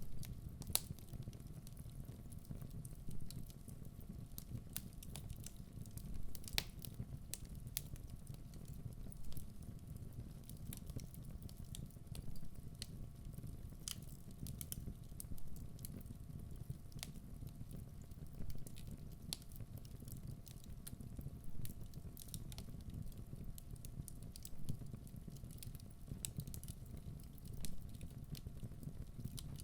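Wood fire burning in a fireplace: a steady low rumble of flames with irregular sharp crackles and pops from the burning logs, a few louder than the rest.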